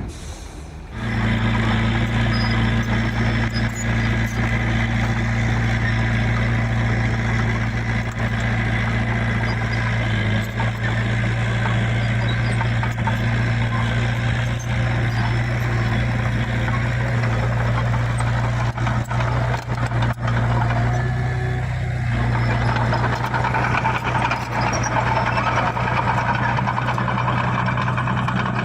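Heavy machine's diesel engine running steadily under load. A higher whine rises in pitch over the last few seconds.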